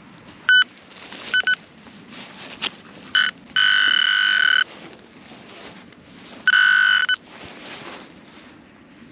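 Handheld metal-detecting pinpointer sounding its alert tone as it is probed into the dug hole: a few short beeps, then a continuous tone of about a second, and another shorter continuous tone near the end, as it locks onto a buried coin. Soft rustling of soil and handling between the tones.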